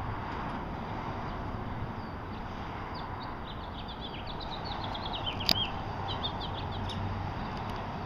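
A small bird singing a quick run of high chirps that step down in pitch, starting about three seconds in and coming again briefly later, over steady outdoor background noise. A single sharp click about halfway through.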